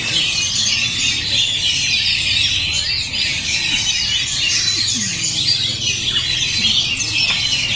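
Many caged Oriental magpie-robins (kacer) singing at once: a dense, unbroken tangle of loud whistles, trills and chatter, over a steady low hum.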